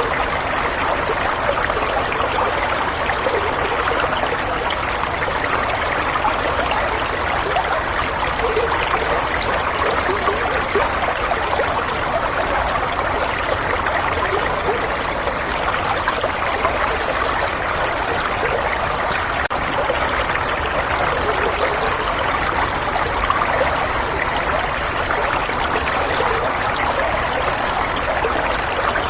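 Running water flowing steadily, an even, unchanging rush with a light babbling texture, used as soothing white noise.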